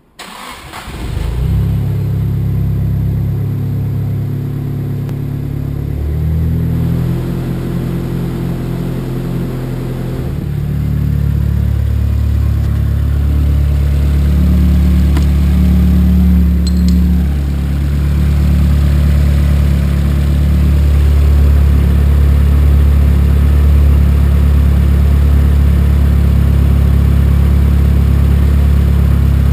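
Nissan 200SX S14A's SR20DET turbo four-cylinder engine cold-starting for the first time after a head gasket change and head rebuild: it catches within about a second and settles into a steady idle, its speed shifting a couple of times in the first ten seconds before holding even.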